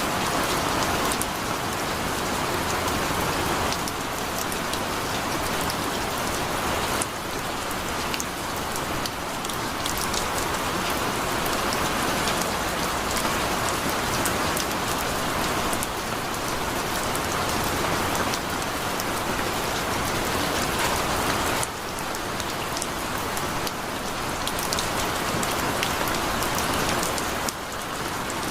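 Heavy rain falling steadily: a dense, even hiss of rain on a surface, with the sharp hits of individual drops running through it.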